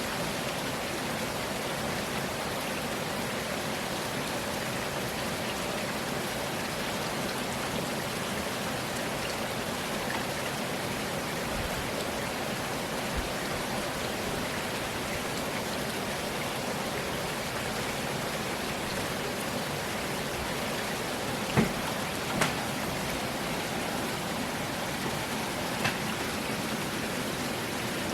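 Steady rain falling in a rainstorm, an even hiss of drops, with a few louder single drips or taps in the last few seconds.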